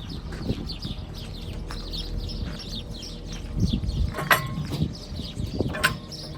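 Rapid chirping of small birds, several short falling notes a second, over a low rumble, with two sharp knocks that ring briefly about four and six seconds in.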